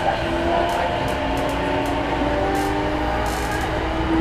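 Running sound inside an E233-1000 series electric train: the Mitsubishi IGBT-VVVF inverter and traction motors whine in several steady tones that slowly rise in pitch as the train gathers speed, over a rumble of wheels on rail with faint ticks now and then.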